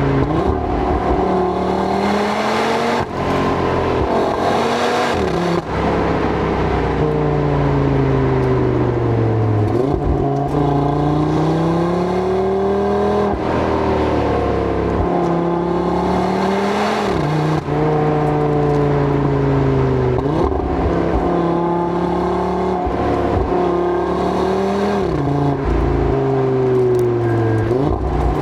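Audi RS3's turbocharged five-cylinder engine being driven hard. Its pitch climbs and falls again and again, with sudden jumps as it shifts gears.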